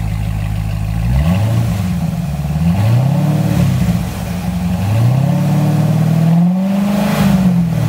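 C6 Corvette Z06's 7.0-litre LS7 V8 through its stock exhaust, revved three times from idle up to about 3,000 RPM, the third rev longer and higher, each falling back. The exhaust butterfly valves are, the owner thinks, held wide open by a pulled fuse.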